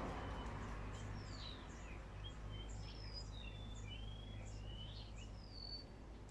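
Small birds chirping: many short, high whistled chirps and little gliding notes, several a second, over a steady low hum.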